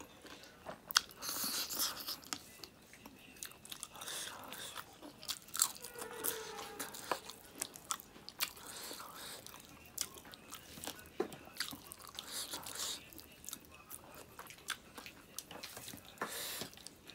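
Close-miked eating: wet chewing and lip smacking with many sharp, irregular crunches and clicks, as smoked pork and rice are eaten by hand.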